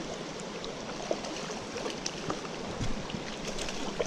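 Mountain stream flowing steadily, with a few faint sharp clicks over it.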